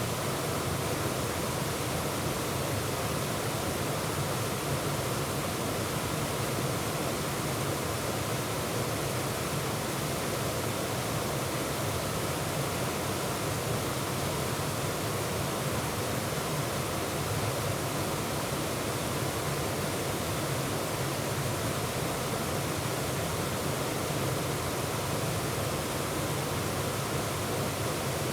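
Waterfall pouring over rocks: a steady, even rush of falling water with no breaks or changes.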